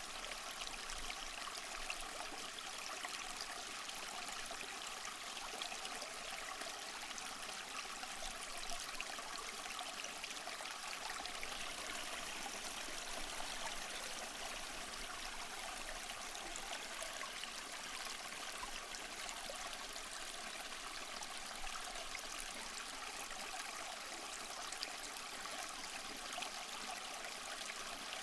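Small waterfall splashing and trickling over mossy rocks in a steady stream of falling water.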